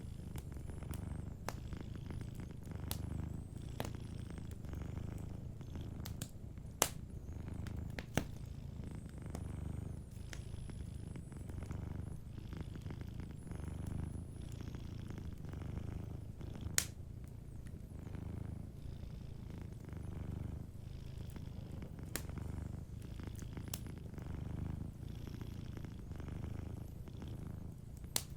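Domestic cat purring steadily, the low rumble swelling and fading with each breath, while a wood fire gives scattered sharp pops and crackles, a few of them louder.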